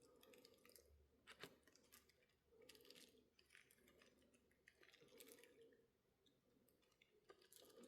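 Near silence: room tone with a few faint small clicks, the clearest about a second and a half in.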